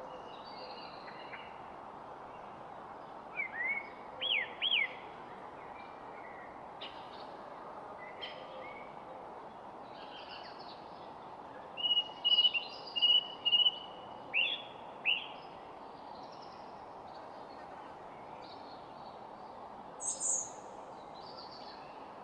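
Several songbirds calling and singing over a steady background hiss, with short whistled notes that sweep up and down. A burst of louder, repeated notes comes about halfway through, and a single higher call sounds near the end.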